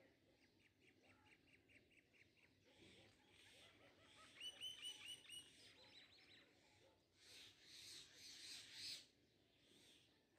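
Faint, quick series of high chirps from a small bird, with a louder run of about five chirps about halfway through. Soft rustling of cloth being smoothed on a table toward the end.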